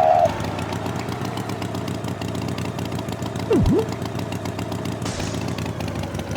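A steady engine running with a fine, even pulse. A short high tone sounds right at the start, and about three and a half seconds in there is a quick swoop down in pitch and straight back up.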